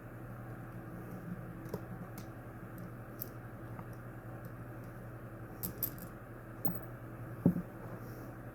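A steady low hum with a few scattered small clicks and clinks, the sharpest about seven and a half seconds in.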